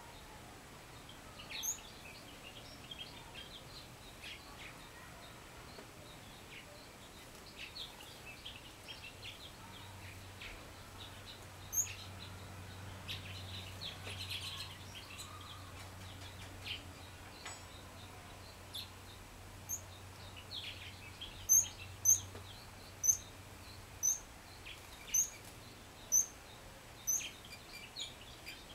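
Wild songbirds chirping and calling, with scattered short high notes. In the second half a single sharp, high chirp repeats about once a second and is the loudest sound.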